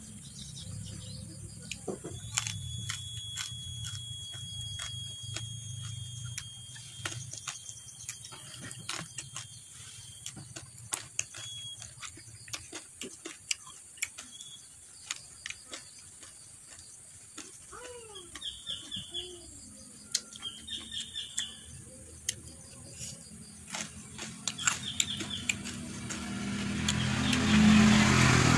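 Close-miked eating sounds: mouth clicks and chewing as rice and raw vegetables are eaten by hand. Short repeated bird chirps come in the middle stretch, and a passing motor vehicle grows louder near the end and becomes the loudest sound.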